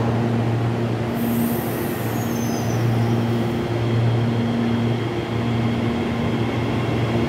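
CPTM electric suburban train moving along the platform: a steady electric hum over the rumble of wheels on rail. A thin high squeal comes and goes between about one and three seconds in.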